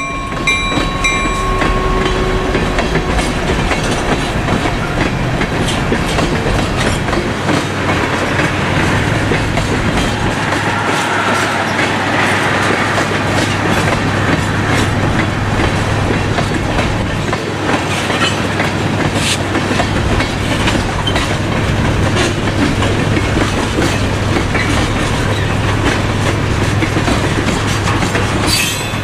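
Freight train of tank cars rolling past close by: steady wheel and rail noise with a rhythmic clickety-clack as the wheels cross the rail joints.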